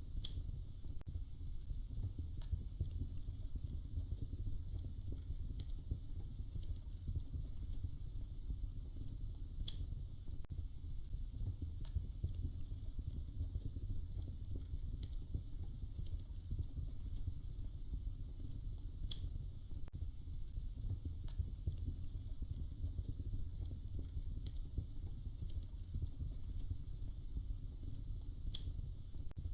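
Wood fire crackling in a fireplace: a steady low rumble with sharp, irregular pops and snaps every second or two.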